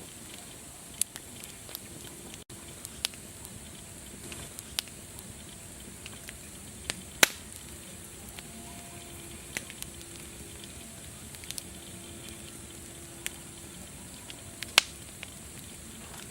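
Wood fire crackling: a steady hiss with scattered sharp pops and snaps, the loudest two about seven and fifteen seconds in.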